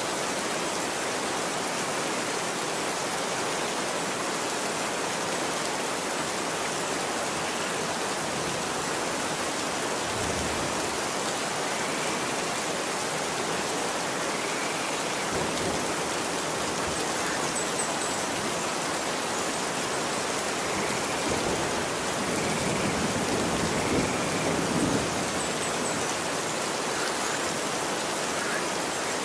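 Steady rain falling on a street, an even hiss.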